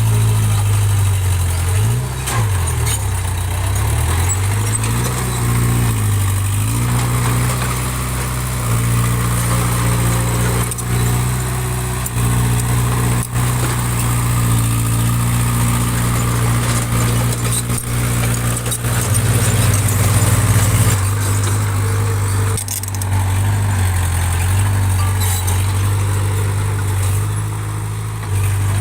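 Small bulldozer's diesel engine running, its pitch dipping and coming back up several times in the first few seconds as it takes load, then holding steady.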